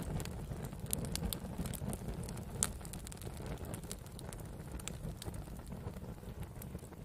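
Wood campfire burning: scattered crackles and pops over a low, steady rumble, with one louder pop about two and a half seconds in.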